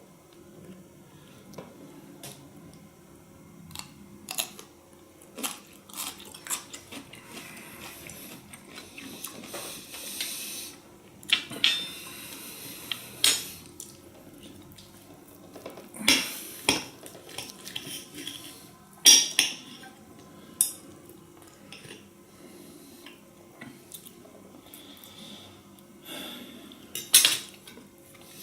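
Metal cutlery clinking and scraping against a dish in irregular clicks, with a few louder clinks spread through.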